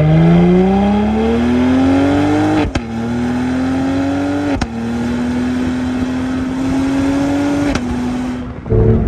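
Cadillac CT5-V's 3.0-litre twin-turbo V6 accelerating hard under full throttle, its note climbing steadily through the gears. It drops sharply at three quick upshifts, about a third of the way in, halfway, and near the end, each marked by a brief snap.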